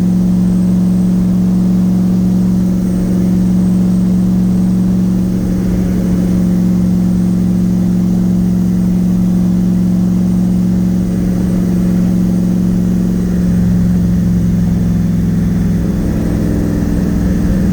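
Twin-turbo Nissan VK56 5.6-litre V8 running at a steady light-throttle cruise: a constant engine drone with a slight change in tone about thirteen seconds in.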